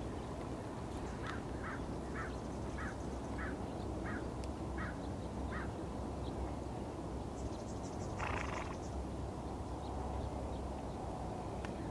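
A bird calls a run of about eight short, evenly spaced notes, roughly two a second, over a steady low rumble of outdoor ambience, then gives one harsher call about eight seconds in.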